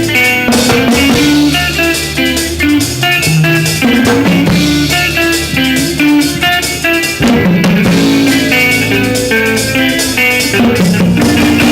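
A live band playing, with guitar and a drum kit keeping a steady beat.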